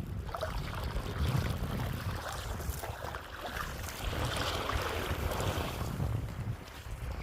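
Wind buffeting the microphone, with lapping and splashing water.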